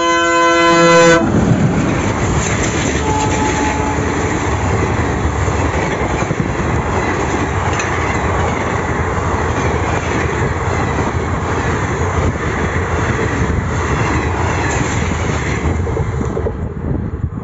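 Locomotive horn blowing one blast about a second long, then an Indian Railways express train of passenger coaches running past close by with a steady, loud rumble of wheels on rails.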